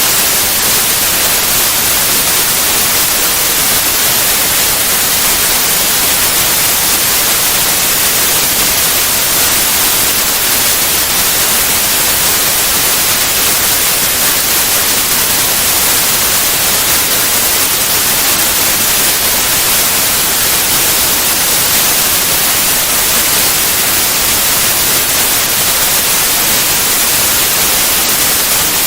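Steady white noise: an even, unchanging hiss across all pitches, strongest in the highs.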